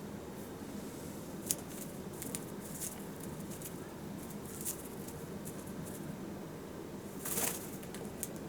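Cockatiel preening: a few scattered soft clicks and rustles of its beak working through its feathers, with a longer rustle near the end, over steady background noise.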